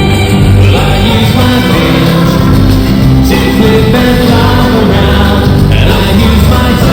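Loud live band music with singing, played steadily throughout.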